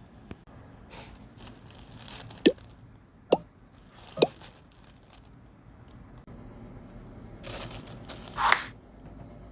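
Items being handled while a gift box is unboxed: three sharp clicks or knocks about a second apart, then a rustle with a short knock near the end.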